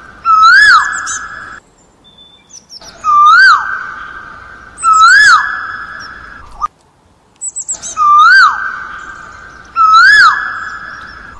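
A bird's clear whistled call: a single piping note that rises and then drops sharply, given in pairs about two to three seconds apart. Each note trails off in a long fading echo.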